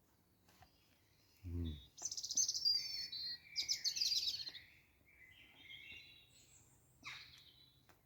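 Songbirds singing in woodland: fast trilled phrases starting about two seconds in, then a few lower notes and a short call near the end. A brief low hum of a man's voice comes about one and a half seconds in.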